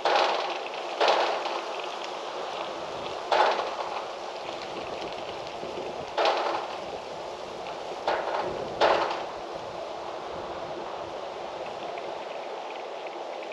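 Steady rushing wind noise, broken by six sudden louder bursts that each fade over about half a second.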